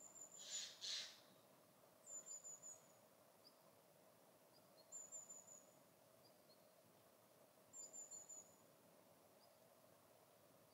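Small bird's high, thin calls: a short run of four or five quick notes, repeated four times about every three seconds, over a faint steady hum. Near the start, two short hissy bursts are the loudest sounds.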